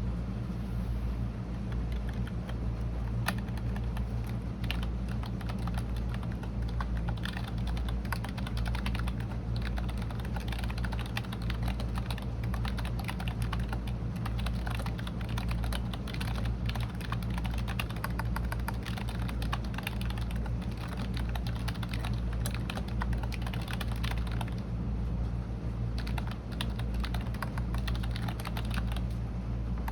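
Continuous typing on a computer keyboard: quick, irregular key clicks, thinning out briefly a little before the end, over a steady low hum.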